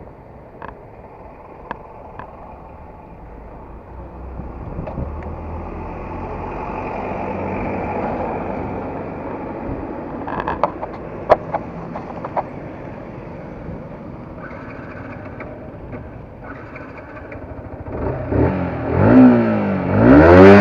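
Yamaha R15 motorcycle's single-cylinder engine and road noise while riding, with a few sharp clicks about ten to twelve seconds in. Near the end the engine is revved hard several times, its pitch rising and falling, and this is the loudest part.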